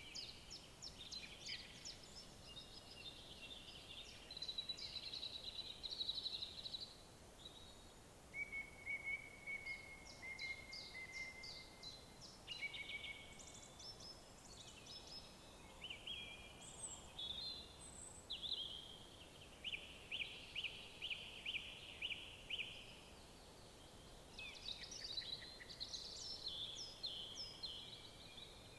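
Several songbirds singing at once, overlapping phrases with quick trills and thin high whistles, over a faint steady background hiss.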